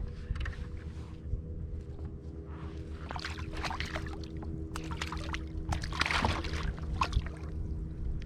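Water sloshing and splashing at a fishing kayak in irregular bursts, heaviest in the middle, over a steady low hum.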